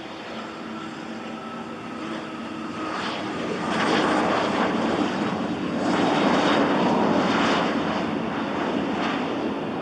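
Cessna 680A Citation Latitude business jet's twin turbofans on landing approach, a steady whine building to a rushing peak about four to seven seconds in as the jet passes, then easing off a little.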